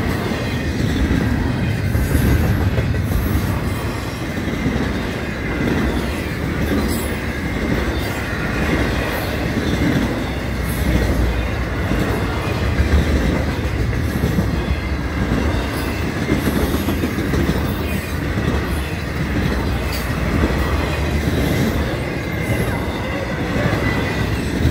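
Double-stack container cars of a Florida East Coast Railway freight train rolling past, a steady loud rumble of steel wheels on the rails.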